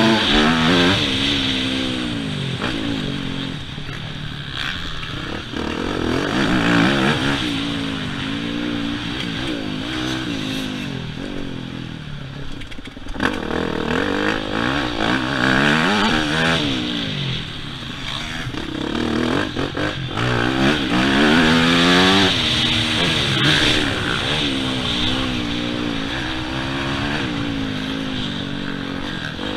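Yamaha YZ250F four-stroke single-cylinder motocross engine being ridden hard, its pitch rising and falling over and over as the throttle is opened and shut through the corners and jumps.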